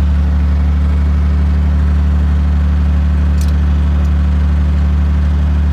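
1926 Rolls-Royce Phantom's 7.7-litre straight-six engine running with a steady low hum, heard from the driver's seat.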